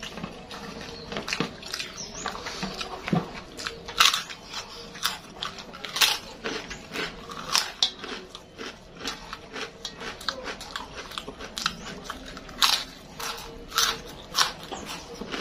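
Close-up eating sounds of a person chewing crispy kerupuk (Indonesian fried crackers), with irregular sharp crunches every half second or so between quieter chewing.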